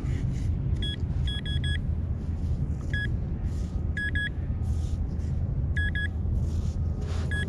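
Minelab Vanquish 440 metal detector giving short high-pitched beeps, singly and in quick runs of two or three, as it sweeps over a very small target in the sand. A steady low rumble runs underneath.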